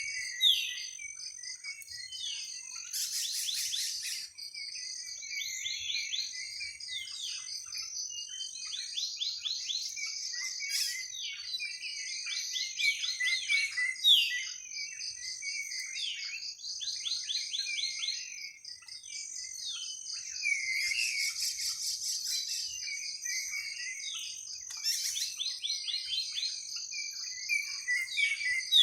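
Forest birds chirping and calling, many quick falling chirps over a steady high-pitched buzzing drone. Brief buzzy rattles come about three seconds in and twice more past twenty seconds.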